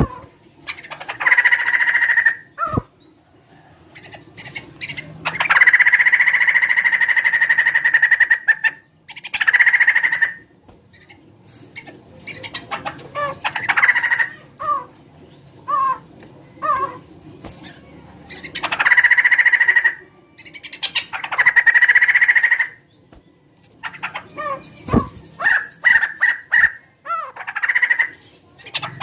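A laughingthrush (poksay) calling: loud, harsh calls of one to three seconds, alternating with runs of short sliding notes and brief pauses.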